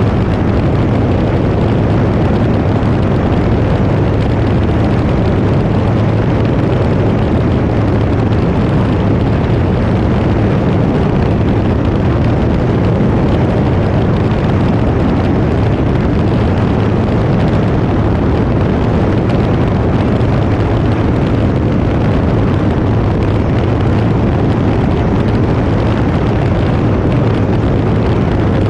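Cirrus SR20 light aircraft in flight: steady engine and propeller drone with a low hum under loud rushing noise, unchanging throughout.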